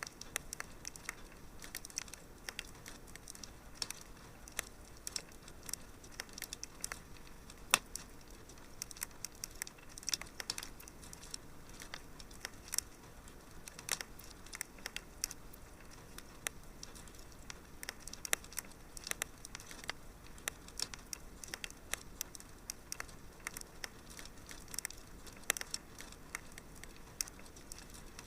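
Fireplace fire crackling: irregular sharp pops and snaps over a soft steady hiss, with one louder pop about eight seconds in.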